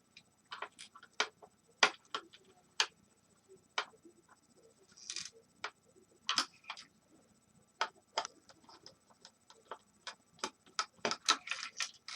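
Irregular clicks and knocks of tools and plastic and metal parts being handled as a space heater is taken apart, with a brief scrape about five seconds in and a quick run of clicks near the end.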